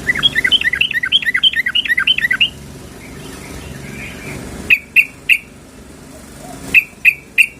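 Yellow-vented bulbul (trucukan) calling: a fast chattering run of about a dozen chirps for two and a half seconds, then two groups of three short, sharp notes. The recording is presented as a female calling a male, the kind used to lure males or to set a caged male singing.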